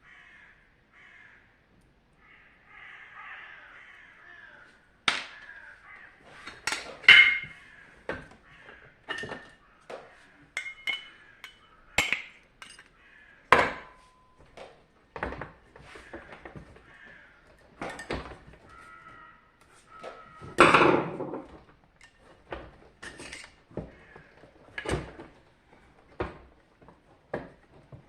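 Irregular clicks and knocks of hand tools and plastic casing parts being handled while a dehumidifier is taken apart, with a heavier knock about two-thirds of the way in.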